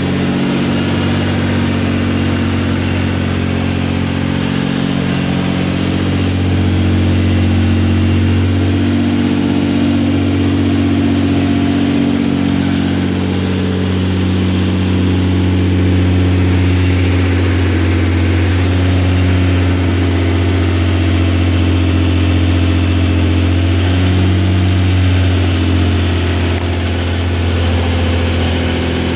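Freshly built Nissan VQ35DE 3.5-litre V6 with a Greddy twin-turbo kit, idling steadily on its first startup after the build.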